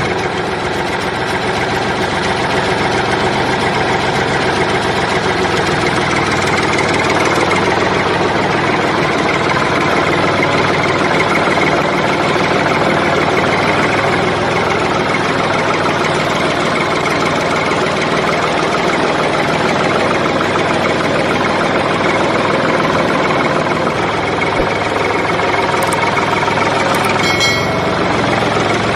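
Small engine of a miniature DIY tractor running steadily at idle, with a short high-pitched chirp near the end.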